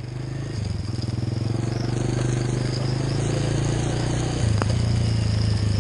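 Motorcycle engine running steadily, a little louder from about four and a half seconds in.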